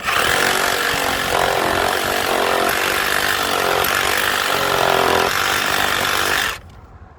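Power tool cutting wood: it starts abruptly, runs loud under load with its pitch dipping and rising as it bites, and stops about six and a half seconds in.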